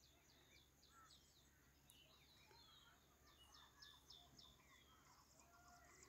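Near silence, with faint birds chirping: a run of short, quick repeated notes.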